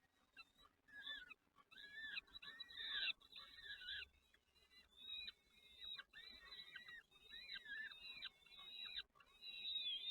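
Small songbird chicks in a nest chirping, many short high notes, arched and falling in pitch, coming thick and fast and overlapping, typical of nestlings begging for food.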